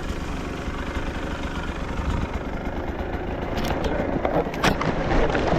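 Dirt bike engine running and getting gradually louder, with a few sharp knocks about four seconds in.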